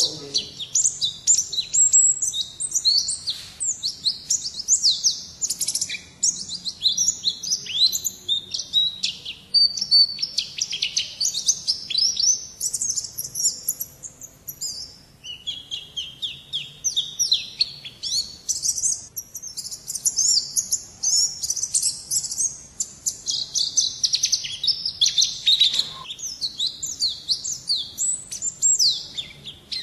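Pleci (white-eye) singing a fast, unbroken run of high twittering chirps, dipping to lower notes for a few seconds around the middle.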